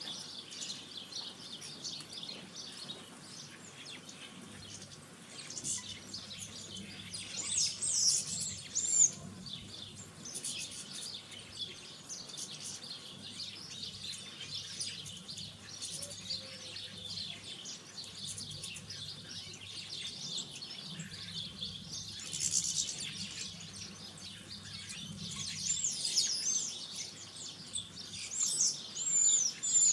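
Several small garden birds chirping and twittering, some of it from birds out of sight, with a few louder bursts of calls, one about a third of the way in and two near the end.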